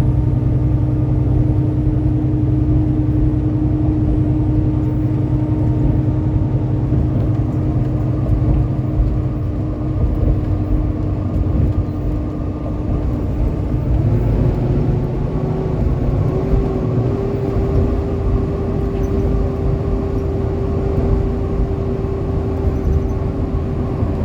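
Steady road and engine noise inside a moving vehicle on the highway, with a constant hum that rises slightly in pitch about fourteen seconds in.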